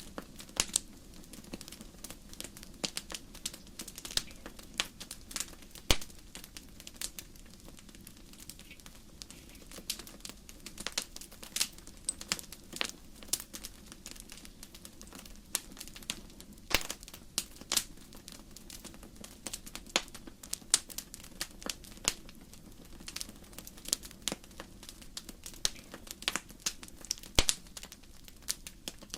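Wood fire burning in a fireplace: irregular sharp crackles and pops of burning logs over a low steady hiss.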